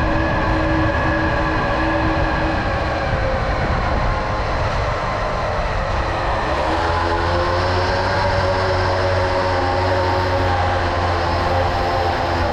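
Tomos Silver Bullet moped's small two-stroke engine running under way. Its pitch drops a couple of seconds in as the revs ease off, then climbs again around six seconds in.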